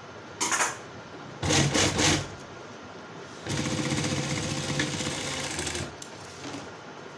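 Sewing machine stitching leather for a motorcycle jacket: two short bursts, then a steady run of about two and a half seconds.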